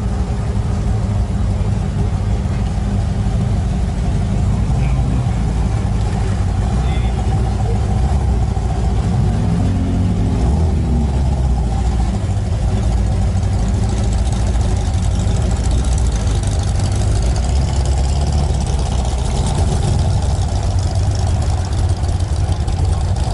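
Car engine running with a steady low rumble, revving up and back down briefly about ten seconds in.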